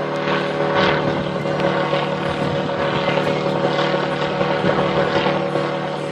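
Butterfly Aurora gyroplane's engine and propeller running steadily, a continuous drone, with gusts of wind buffeting the microphone.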